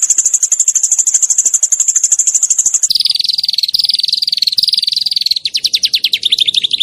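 Small songbirds' rapid, sharp 'tembakan' trills used as masteran training song. A high, fast trill switches about three seconds in to a lower trill in short pulsing phrases, and near the end to a faster stuttering trill.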